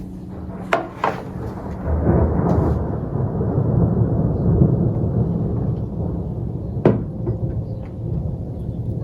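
A low rumble that swells for about five seconds and then eases off, with a few sharp knocks, two of them near the start and one near the end.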